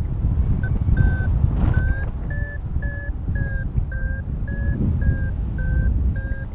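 Paragliding variometer beeping about two to three times a second, its pitch shifting slightly up and down, the tone a vario gives while the glider is climbing. Wind rushes over the microphone underneath.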